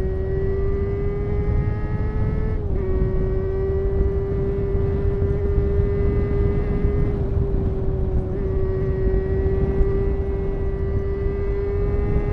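Honda CBR250RR MC22's 250 cc inline-four engine running at high, near-steady revs under way, pitch creeping up slightly, with a brief dip in pitch about three seconds in. Wind rush lies underneath.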